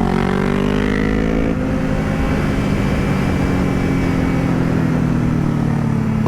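Yamaha R6 sport bike's inline-four engine revving briefly, then dropping in pitch about a second and a half in and winding down slowly on a closed throttle as the bike decelerates.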